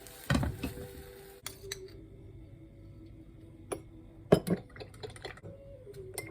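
Utensils clinking and knocking against glass dishes, a handful of separate strikes with the loudest about four and a half seconds in.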